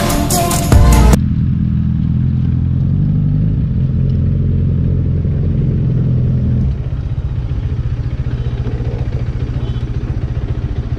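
Bajaj Dominar's single-cylinder engine running at low speed as the motorcycle rolls in and parks, then settling into an idle with an even, fast pulsing beat about two-thirds of the way through.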